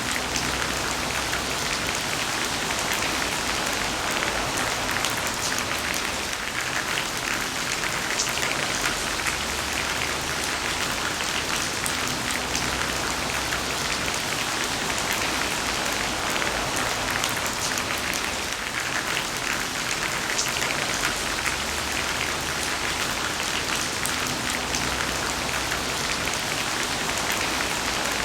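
Heavy rain falling steadily: a dense, even hiss of countless drops striking.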